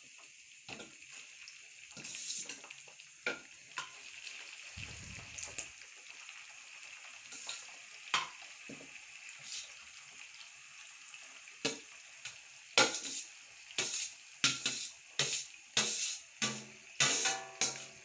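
Sliced bitter gourd sizzling as it is half-fried in hot oil in a wok, with a metal spoon scraping and knocking against a steel bowl as the slices are pushed into the pan. The knocks come faster and louder over the last several seconds.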